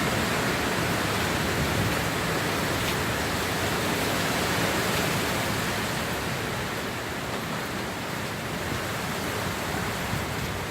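Hurricane wind and heavy rain: a steady, dense rush of noise with no breaks, getting slightly quieter over the last few seconds.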